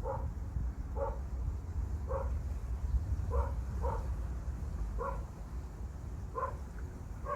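A dog barking repeatedly, about one short bark a second, over a steady low rumble.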